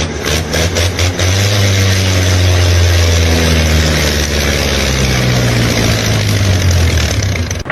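An engine running steadily with a low hum and a loud hiss over it, with a few sharp clicks in the first second or so.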